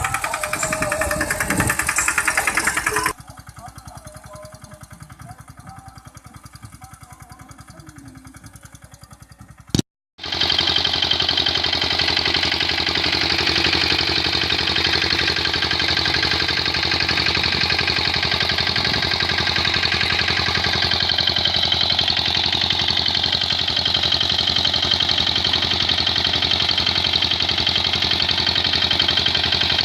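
Vehicle engines running in separate clips: a loud engine, then a cut to a quieter engine running with a fast even beat, a brief dropout about ten seconds in, then a loud engine running steadily.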